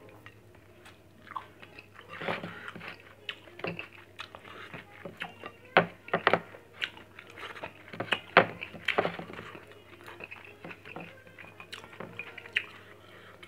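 Close-up sound of a person chewing grilled fish and rice eaten by hand: irregular wet smacks and crunchy clicks of the mouth. It is busiest and loudest from about two to nine seconds in, then thins out.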